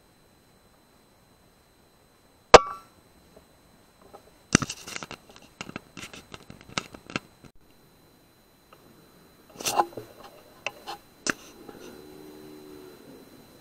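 A single sharp click with a brief ring about two and a half seconds in, then scattered clicks, rattles and rustles in two clusters, and a faint low hum near the end.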